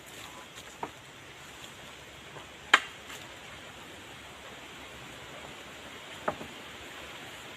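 Steady background hiss broken by three sharp knocks or snaps, the loudest about three seconds in.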